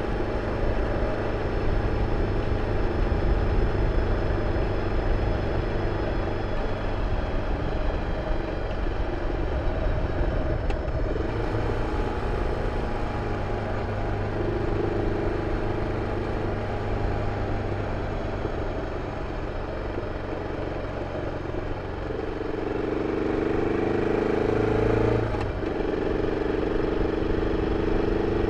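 BMW F 650 CS single-cylinder engine running through its original exhaust, its pitch stepping up and down several times, with a short dip and recovery near the end.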